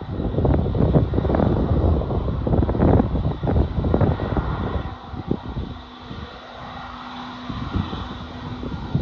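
Jet engine noise from an Airbus A321neo's Pratt & Whitney PW1100G geared turbofans: a loud, uneven rumble that drops away about five seconds in, leaving a quieter hum with a steady low tone.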